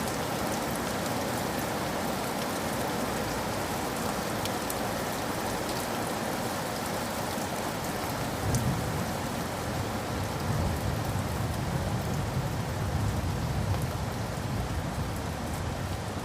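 Steady rain falling on surfaces, an even hiss with fine drop ticks. About halfway through, a low rumble joins it and swells and fades for the rest of the stretch.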